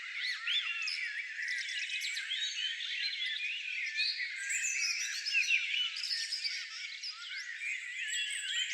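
A chorus of many small songbirds chirping and twittering at once, a dense tangle of short high calls with no pause.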